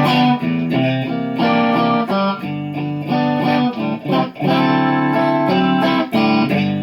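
Slow blues played on electric guitar: an instrumental guitar fill between sung lines, with held, bending notes over sustained chords.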